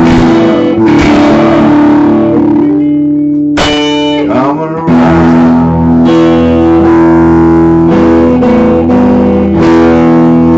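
Guitar music: strummed chords ringing over sustained notes, played loud with poor sound quality.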